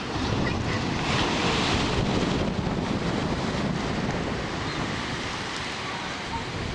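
Waves washing on a rocky shore, mixed with wind buffeting the microphone: a steady rush that swells about a second in, then eases.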